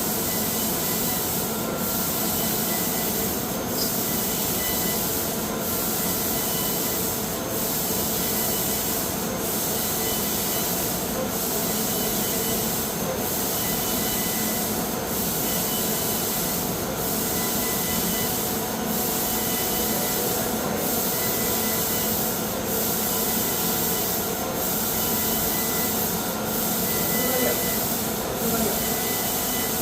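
CNC laser cutting machine running: a steady hiss of cutting gas and machine noise, dipping briefly at an even beat about every two seconds.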